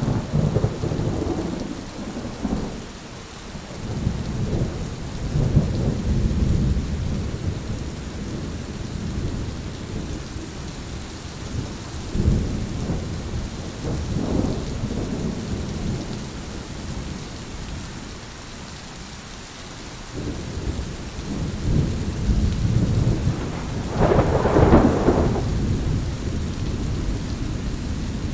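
Thunderstorm: steady rain with repeated rolls of rumbling thunder, the loudest clap rising near the end.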